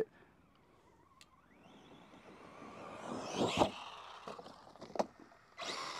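Arrma Gorgon RC truck's brushless motor and tyres on dirt, swelling to a peak about three and a half seconds in and then fading, with a sharp knock about five seconds in.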